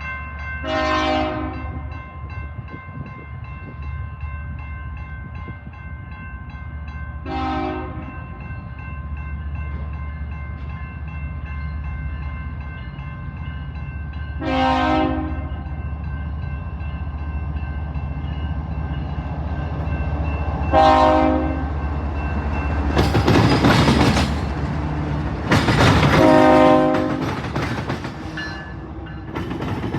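Two CSX diesel locomotives passing, their engines running under repeated multi-note horn blasts, about six of them spaced several seconds apart. The engine noise builds and is loudest from about three-quarters of the way through, as the locomotives go by.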